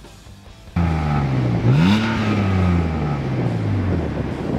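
2004 BMW 330Ci's 3.0-litre straight-six running at its twin tailpipes, cutting in suddenly under a second in. It is blipped once, with a quick rise in pitch, then settles back slowly.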